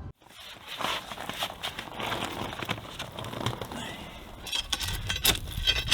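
Irregular crunching and clicking on gravel, like footsteps and hands shifting stones, growing busier near the end.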